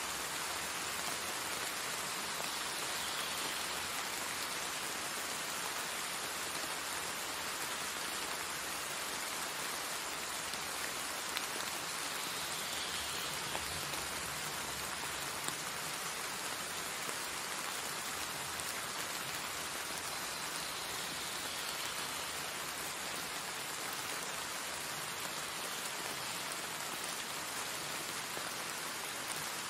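Heavy rain pouring steadily onto trees and leafy foliage: an even, unbroken hiss of downpour, with a couple of brief louder drop hits partway through.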